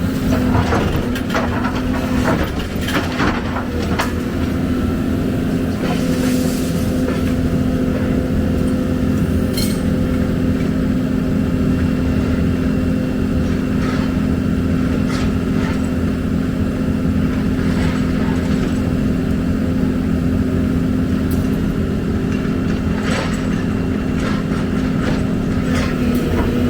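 Excavator's diesel engine running steadily with a constant hum, with scattered sharp knocks and clinks, most in the first few seconds and again near the end.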